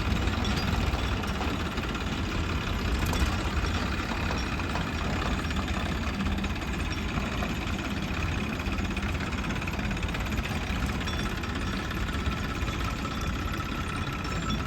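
Diesel engine of heavy machinery running steadily at a low, even speed, like an idle.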